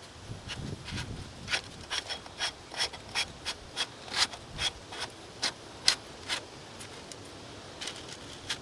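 A run of short, sharp scraping clicks, about two or three a second for some five seconds, from hand work reassembling the mini-excavator's fuel filter.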